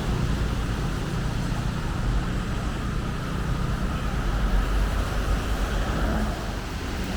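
Steady, continuous road traffic noise, a low rumble of passing cars.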